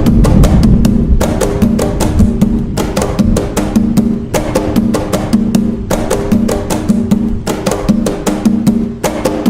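Atabaque drums playing the nagô rhythm (toque nagô): a fast, steady repeating pattern of sharp strikes over a recurring deep drum tone.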